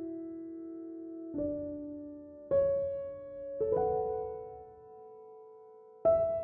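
Slow background piano music: single notes and chords struck about every second or so, each fading away before the next.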